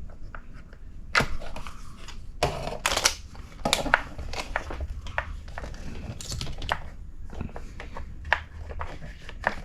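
Irregular clicks and light knocks of small hard plastic and metal RC buggy kit parts being handled and fitted together by hand.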